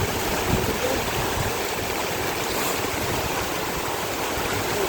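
Heavy rain pouring down with strong wind: a steady, even rush of noise.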